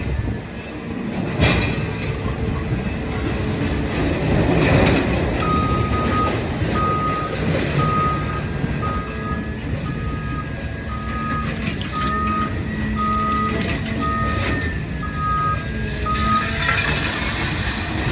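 A vehicle's reversing alarm beeping about once a second, starting about five seconds in and stopping near the end, over steady heavy machinery and occasional clanks of scrap metal.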